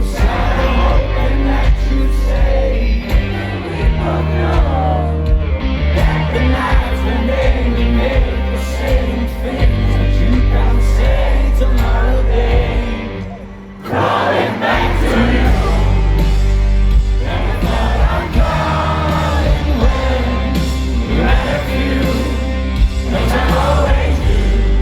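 Live rock band playing at a concert, with a crowd singing and yelling along. The music drops out briefly about halfway through, then comes back in.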